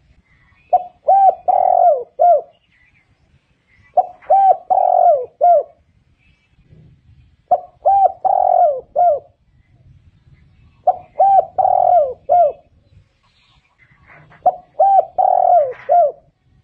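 Spotted dove singing: five phrases, each a quick run of three or four coos, repeated about every three and a half seconds.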